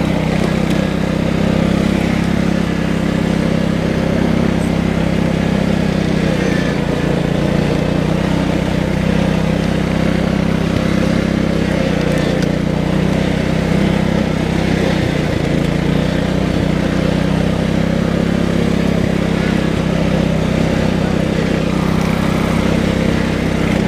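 Tractor engine running steadily, a constant low drone that holds the same pitch and level throughout.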